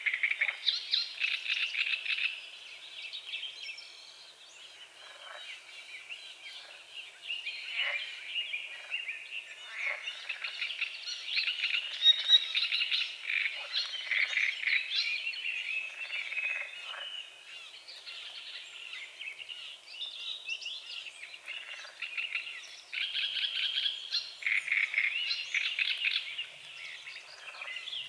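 A chorus of frogs croaking in trains of rapid, rattling pulses that swell in bouts and die back, with birds singing among them.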